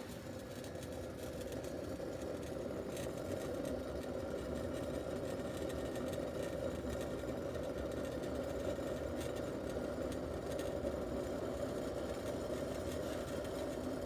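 Vacuum siphon coffee maker boiling over its flame, steam bubbling steadily through the water with a continuous rumble that swells a little in the first couple of seconds. The sound means the reservoir is nearly emptied and the mechanism is about to drop down.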